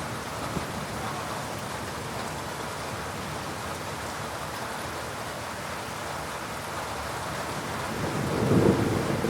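Heavy rain falling steadily in a thunderstorm. Near the end a low rumble of thunder swells up and grows louder.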